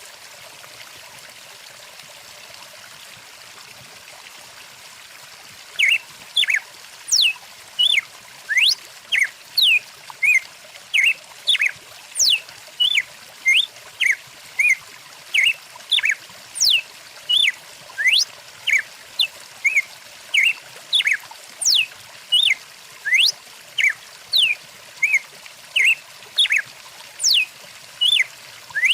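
Stream water running with a steady rushing hiss. About six seconds in, a bird starts calling over it and keeps on: short loud whistled notes, some sweeping up and some down, a little under two a second in an even rhythm.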